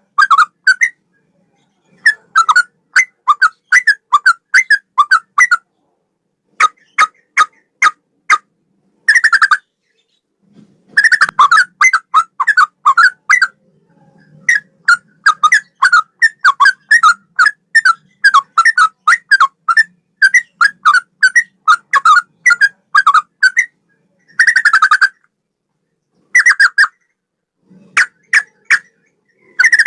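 Sooty-headed bulbul singing loud, rapid strings of clear whistled notes, in phrases styled like a straw-headed bulbul's song, with short pauses between phrases.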